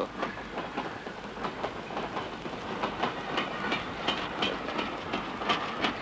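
Railway train running on the rails: a steady rattle with frequent, irregular clacks of wheels over the rail joints.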